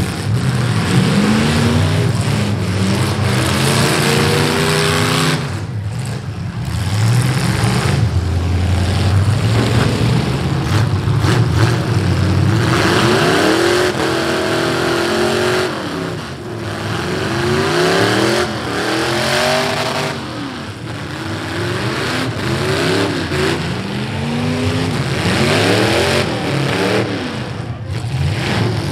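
Several V8 demolition-derby car engines revving hard, again and again, each rising and falling in pitch and overlapping one another, over a constant loud noise from the arena.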